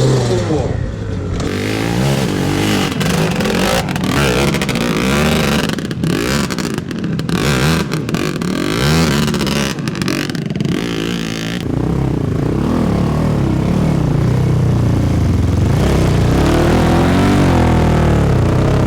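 Enduro dirt bike engines revving, the pitch rising and falling again and again, with some clattering in the first part and a steadier engine note after about twelve seconds.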